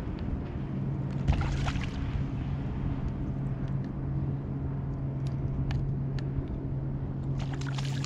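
Boat engine idling with a steady low hum, over wind and water noise, with a few faint clicks.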